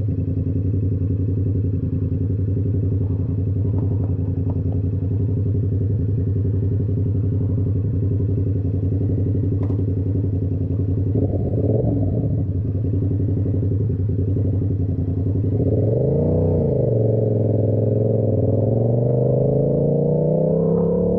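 Yamaha YZF-R7's 689 cc parallel-twin through an SC-Project exhaust, idling steadily. There is a short blip of the throttle about halfway through, then the bike pulls away and accelerates, the exhaust note rising steadily in pitch over the last several seconds.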